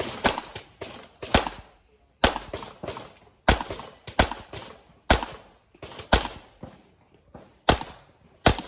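Handgun firing a fast string of shots, many fired as quick pairs with short pauses between pairs, as in a practical-shooting stage. Each shot has a short echo. The shooting stops just before the end.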